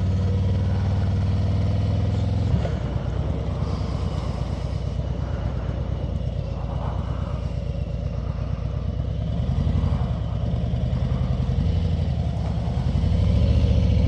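Motorcycle engine running while riding, a steady low engine note. The note changes suddenly about two and a half seconds in, and the engine grows louder near the end.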